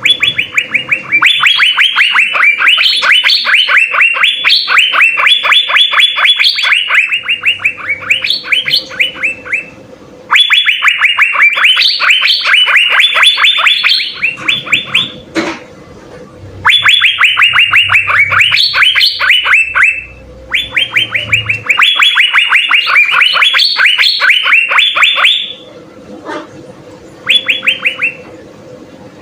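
Asian fairy-bluebird (cucak biru) singing in long, loud phrases of rapid, sharply repeated high notes. There are about five runs of several seconds each, separated by short pauses. A faint steady hum sits underneath, and a single sharp click comes about halfway through.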